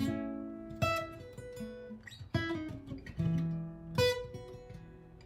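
Martin GPCPA4 acoustic guitar being strummed: chords struck about every second, each left to ring out and fade, with a few single notes between.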